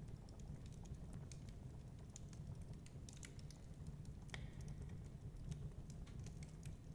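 Wood fire crackling faintly, with irregular small pops and one sharper pop about four seconds in, over a low steady rumble.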